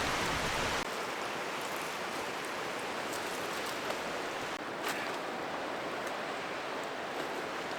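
Steady outdoor rushing noise with no clear source, like wind through the woods, with a low rumble of wind on the microphone for about the first second and a couple of faint clicks later on.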